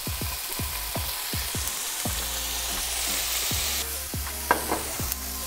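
Grilled chicken thigh strips and diced red onion sizzling in olive oil in a sauté pan over a gas flame, with soy sauce being poured in. The sizzle is a steady hiss that grows brighter for a second or two around the middle.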